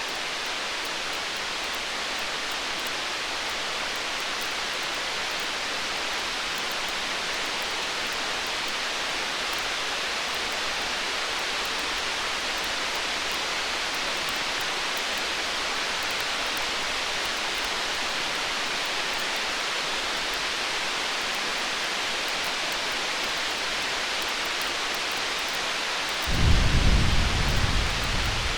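A steady hiss with faint crackling of a wood fire. About 26 seconds in, a low rumble of distant thunder swells for about two seconds and fades.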